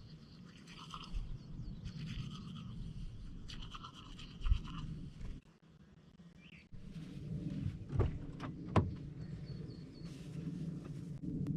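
Rhythmic scrubbing or rustling handling noise, broken by a short quiet gap and a few dull knocks.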